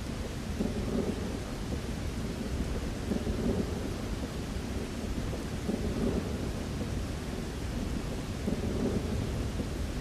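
Thunder rumbling over steady rain, the rumble swelling and fading about four times.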